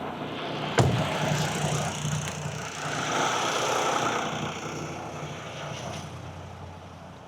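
A sharp knock, then a vehicle's engine hum under a rush of noise that swells and fades away, as of a vehicle going by.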